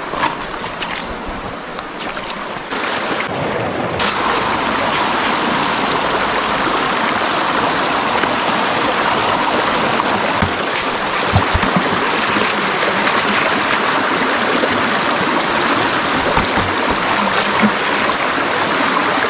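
Steady rushing of a river or stream, with a few faint knocks; it steps up louder after a cut about four seconds in.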